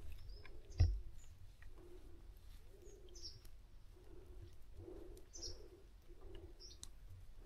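Birds calling: a series of short, low cooing notes about once a second, with a few brief high chirps from other birds over them.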